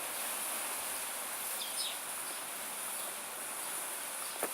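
Steady high-pitched insect drone in the background, with a couple of faint short chirps a little under two seconds in.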